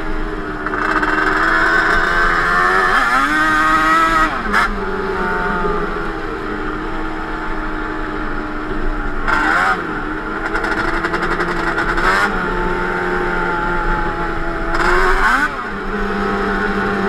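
Yamaha Banshee 350 ATV's twin-cylinder two-stroke engine, with Toomey T5 expansion-chamber exhaust, running under way; its pitch climbs and drops several times as the throttle is worked.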